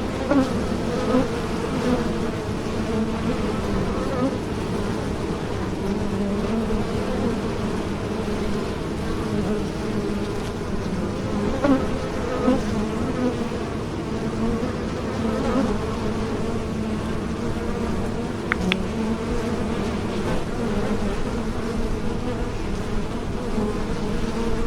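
Honeybees buzzing in flight, a steady drone of several overlapping wing-beat hums whose pitch wavers.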